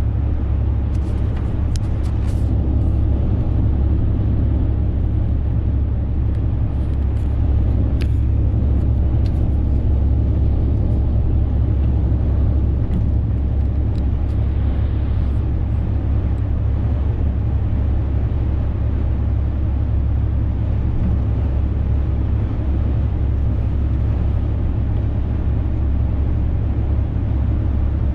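Renault truck's diesel engine and road noise while driving: a steady low drone with a few faint clicks.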